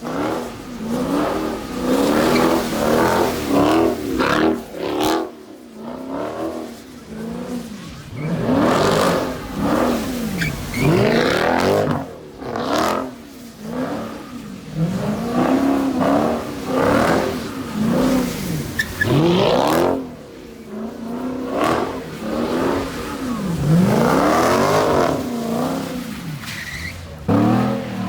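A car engine revved hard over and over, its pitch climbing and dropping again about every one to two seconds.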